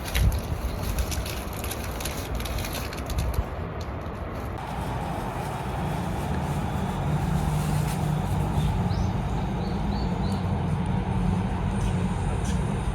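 A road vehicle's engine and road noise running steadily, with a few light knocks in the first seconds. It grows a little louder and fuller about four and a half seconds in.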